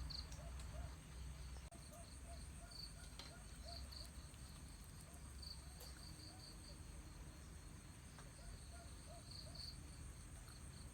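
Faint insects chirping: a steady high buzz with short trains of rapid chirps, over soft repeated low calls and a low hum.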